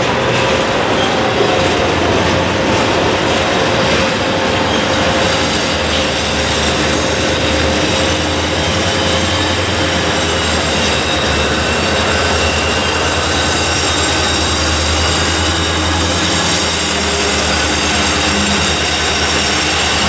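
A slow freight train's cars rolling past on steel rails with a thin, steady wheel squeal. They are being shoved by a diesel locomotive, whose low engine rumble grows louder partway through as it draws near.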